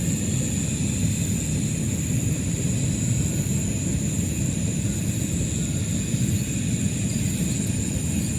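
Steady outdoor background: a low rumbling noise with a constant thin high-pitched whine above it.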